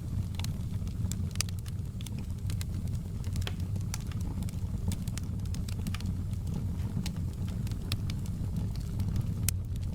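Fire in a fireplace crackling: frequent small sharp pops and snaps at irregular intervals over a steady low rumble of flame, with one louder pop near the end.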